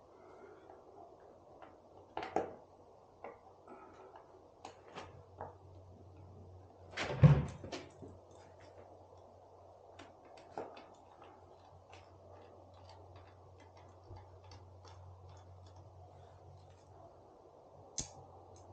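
Hand tools and motorcycle parts being handled during work on the bike: scattered light clicks and knocks, a louder clunk about seven seconds in, and a sharp click near the end.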